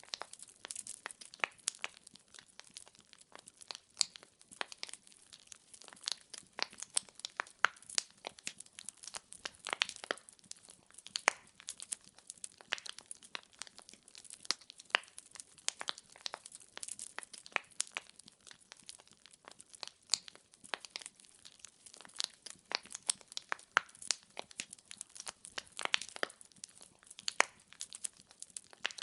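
Firewood burning and crackling, with irregular sharp pops and snaps, several a second, over a soft hiss.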